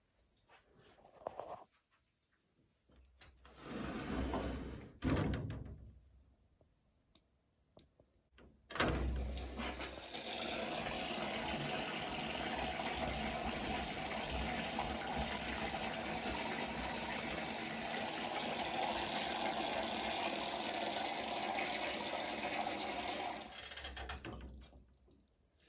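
Shower spray running in an enclosure: a short spurt of water, then the shower comes on suddenly and runs steadily for about fifteen seconds before it is shut off near the end.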